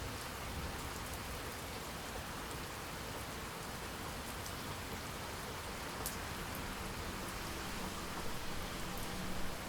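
Steady rain falling, an even hiss with a few sharp, close drop ticks here and there.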